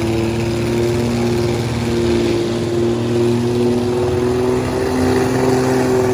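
Full-size truck engines running hard at a demolition derby: a steady, loud engine drone that rises and falls slightly in pitch as the trucks manoeuvre.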